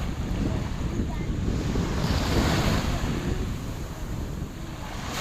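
Waves washing in on a shore, with a surge swelling about two seconds in, over steady wind buffeting the microphone.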